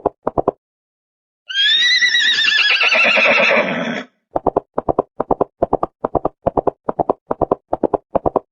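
A horse's hooves clip-clopping in a steady rhythm. They stop, and about a second and a half in a horse whinnies for about two and a half seconds, its pitch wavering and falling. The hoof beats then start again.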